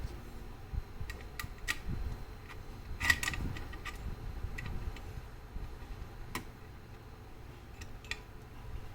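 Irregular small metallic clicks and clinks, a cluster about three seconds in, as clock movement parts and tools are handled on a bench.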